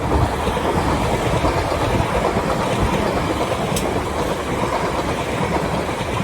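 A train running past on the line: a steady noise of wheels on rails, which comes in suddenly at the start.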